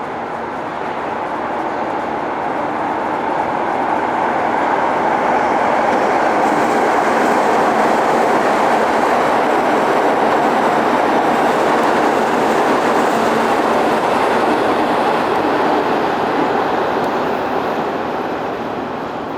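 A passing train: a steady rushing rumble that grows to its loudest about halfway through, then fades away.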